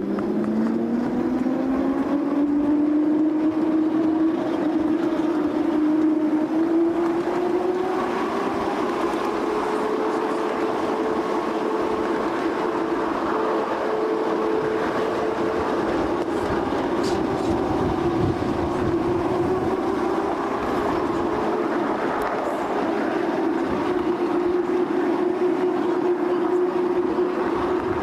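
Narrow-gauge Talyllyn Railway train running along the track, heard from aboard a passenger coach. A steady running hum rises in pitch over the first few seconds and then holds level.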